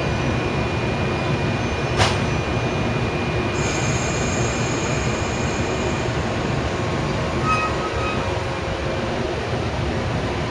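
JR Kyushu 415 series electric train pulling out of the station, a steady rumble of motors and wheels as it moves away, with a single sharp click about two seconds in.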